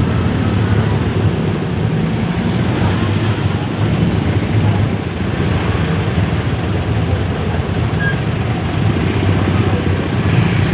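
Steady engine and road noise from a moving vehicle in traffic.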